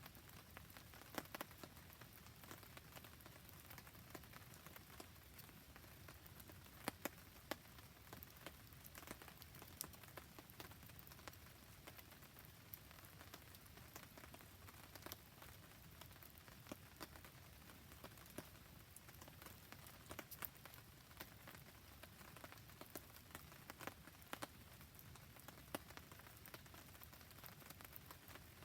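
Faint, steady rain falling, with scattered sharp pops and crackles from a wood fire burning in it.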